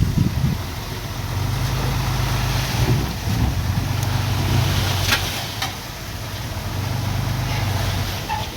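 Heavy diesel engine of earthmoving machinery running, its low drone swelling and easing under load. Two sharp clanks come about five seconds in.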